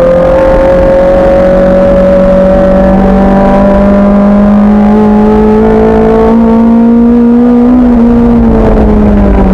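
A racing car's engine pulling hard in one gear, its revs climbing slowly for about eight seconds, then dropping as the throttle eases near the end.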